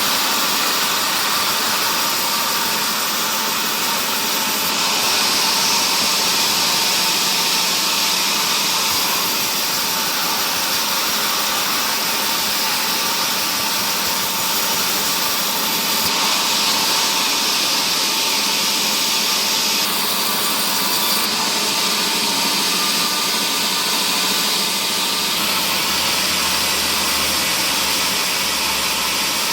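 Woodworking machinery in a timber mill running steadily, a loud even whir and hiss with a constant hum; a deeper hum joins near the end.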